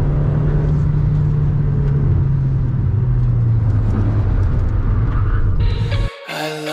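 VW Saveiro pickup's engine and road noise heard from inside the cabin, running steadily while driving. The engine note drops a little about halfway through. It cuts off suddenly near the end and music takes over.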